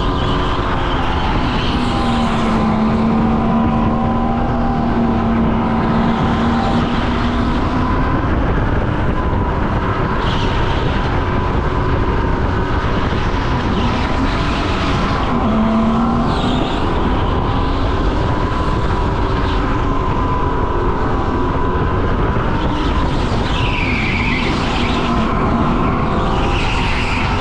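Go-kart lapping a race track at speed. A steady motor tone slowly rises and falls in pitch through the corners over heavy wind rumble, with short higher-pitched squeals every few seconds.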